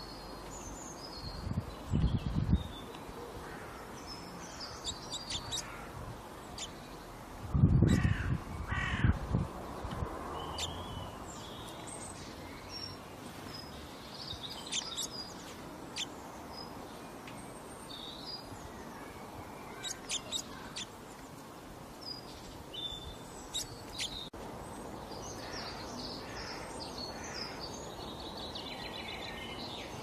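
Birds calling: two loud clusters of calls, about two seconds in and again around eight to nine seconds in, with small birds chirping now and then over a steady background noise.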